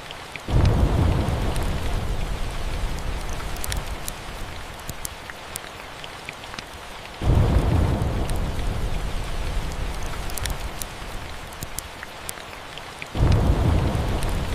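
Steady rain with three rolls of thunder, each starting suddenly about six seconds apart as a deep rumble that fades slowly, with scattered sharp ticks over the rain.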